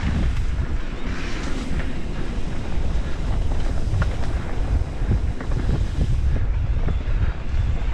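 Wind buffeting the microphone as a steady low rumble, with scattered clicks and rattles from a mountain bike riding over a rough dirt trail.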